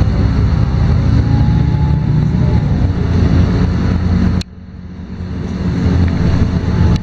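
LiAZ-5292.22 city bus's diesel engine running under load while driving, heard from inside the cabin. About four seconds in the sound drops off suddenly, then builds back up.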